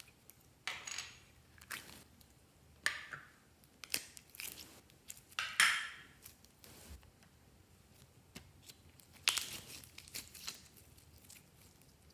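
Glossy slime being pressed and pulled by hand, giving irregular short sticky crackles and squelches, with the longest about halfway through and a cluster near the end.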